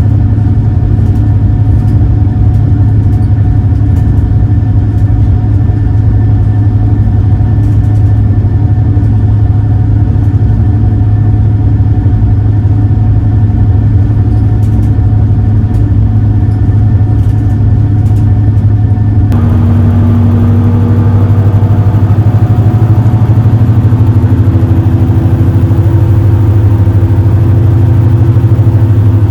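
Engines of the Super Jet Miyajima high-speed passenger boat droning steadily while under way, heard on board: a loud, deep, even hum with a few steady higher tones. About two-thirds of the way through, the sound changes abruptly and turns hissier.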